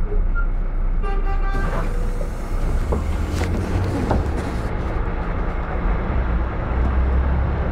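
Minibus brake pads squealing: a short pitched whistle about a second in, over the rumble of the engine and passing traffic, followed by a rushing noise. The squeal is the brake-pad whistle common on these minibuses.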